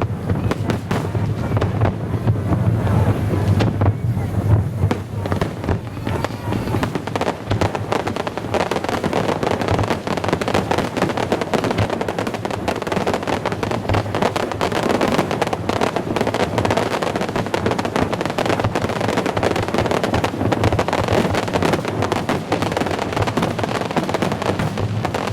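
Fireworks display: a dense, continuous crackle of many small sharp reports, with music playing underneath.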